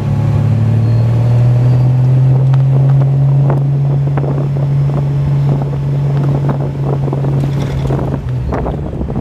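Triumph TR6 straight-six engine with a Monza exhaust and steel resonators pulling steadily under load. Its note rises slightly about a second in, holds, then falls near the end.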